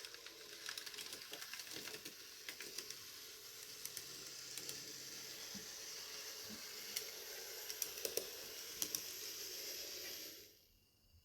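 N gauge Graham Farish Class 158 model train running along the track with its sound chip off: a steady mechanical hiss of motor and wheels, with scattered light clicks. It cuts off suddenly near the end.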